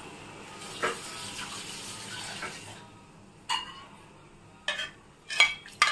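Mung dal and vegetables sizzling gently in a kadai, the sizzle fading away within the first three seconds. Then about four sharp metallic clinks of utensils against the pan in the last two and a half seconds.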